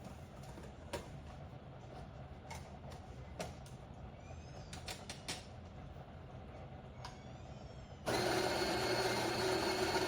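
A few light clicks and taps, then about eight seconds in the Fellow Opus conical burr grinder's motor starts suddenly and runs steadily with a whine as it grinds coffee beans.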